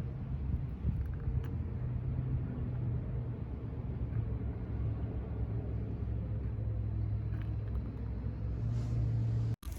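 Steady low rumble of a motor vehicle engine running, cutting out for a moment near the end.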